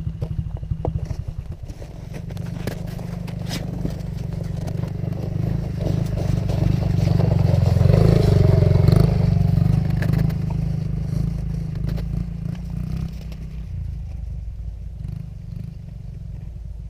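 Dirt bike engine running, growing louder to a peak about eight or nine seconds in, then fading away.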